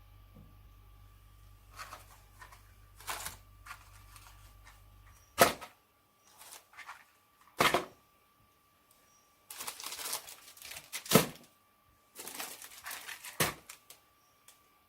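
Firewood and kindling being handled and laid in a fireplace: irregular knocks of wood, three of them sharp and loud, with bursts of rustling in between. A low background hum cuts out about five seconds in.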